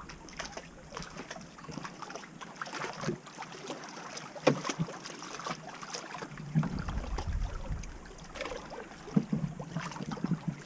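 Water lapping and splashing around a canoe, with a few light knocks and splashes. Wind buffets the microphone from a little past halfway.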